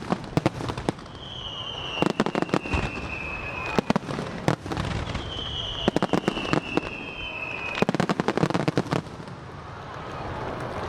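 Fireworks bursting in rapid crackling volleys about every two seconds, with two long whistles that fall slightly in pitch between the volleys.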